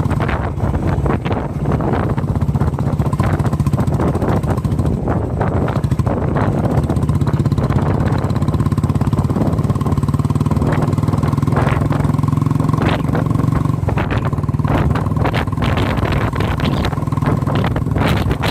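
A vehicle engine running steadily on the move, with short gusts of noise over it.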